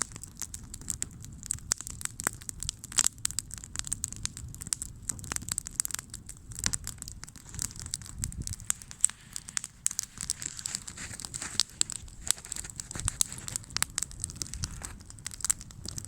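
Wood campfire burning steadily, crackling with dense, irregular pops and snaps over a low hum of the flames.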